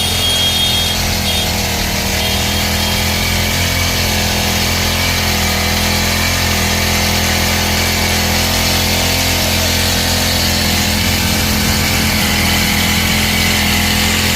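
Four-stroke petrol engine of a SAMSON SAM-PT portable spray machine running steadily at constant speed.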